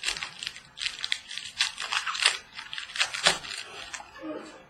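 Foil wrapper of a trading-card pack crinkling and tearing as it is opened, with the cards being handled; the crackling thins out near the end.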